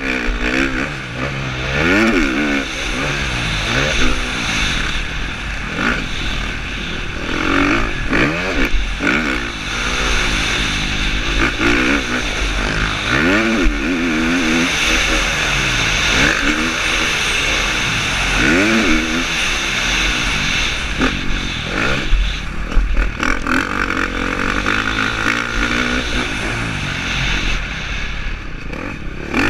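KTM 350 SX-F four-stroke single-cylinder motocross engine revving hard, its pitch climbing and dropping back every couple of seconds as the bike accelerates and shifts around the track. Heard from a helmet camera, with wind rushing across the microphone.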